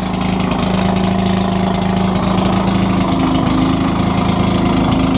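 Maytag Model 72 two-stroke gas engine on an old washing machine, running steadily at idle with the washer out of gear.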